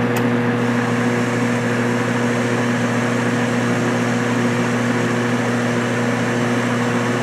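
Metal lathe running under power feed while a high-speed-steel tool bit takes a light turning cut in mild steel. It gives a steady machine hum with a constant gear whine and no change in speed.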